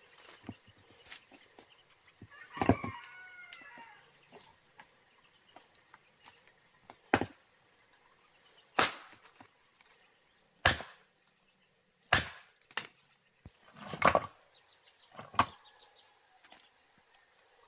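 A rooster crows once about two and a half seconds in. Then come six sharp tool strikes, roughly one and a half seconds apart, from about seven seconds in.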